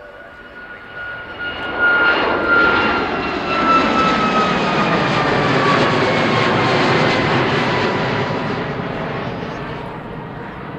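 Jet aircraft passing close by: engine noise swells over the first couple of seconds, holds, then slowly fades, with a whine that slides down in pitch as it goes past.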